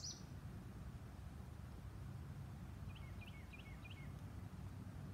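Quiet outdoor ambience with a low steady rumble, and a bird chirping four times in quick succession about three seconds in.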